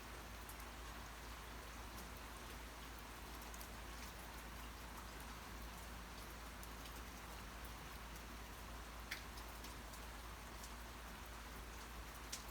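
Steady rain falling, with scattered drops ticking on a surface and a couple of sharper drop hits, one about nine seconds in and one near the end.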